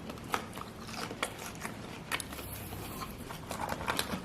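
Biting and chewing thick bacon, with irregular sharp, crisp clicks from the mouth and food.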